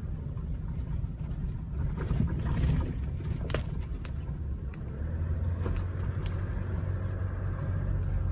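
Small 1-ton truck heard from inside the cab while driving, with a steady low engine and road rumble. A steadier low engine drone comes in about five seconds in, and there are a few faint clicks.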